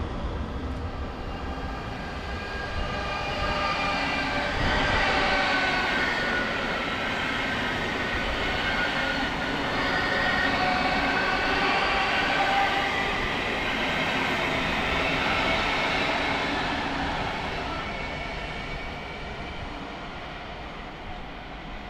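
A train passing, its running noise carrying several high whining tones that shift slowly in pitch. The sound swells through the middle and fades near the end.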